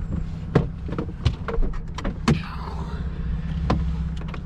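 Ford Bronco with a muffler-delete exhaust idling steadily, with several sharp clicks and knocks over it and a brief rustle about two and a half seconds in.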